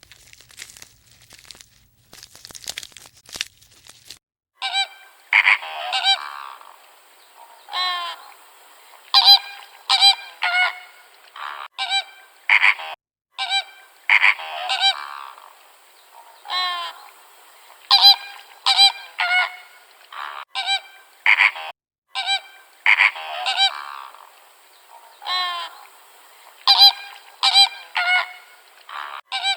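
Domestic geese honking over and over, loud calls coming about once a second, some in quick pairs, after a few seconds of crackling rustle at the start.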